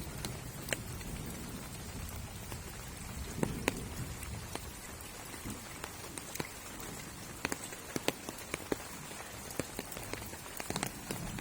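Water dripping after rain: irregular single drops tapping, some sharper than others, over a soft steady hiss.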